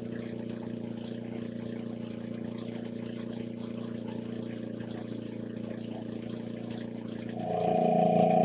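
A motor running at a steady pitch with water trickling and pouring; the motor gets louder near the end.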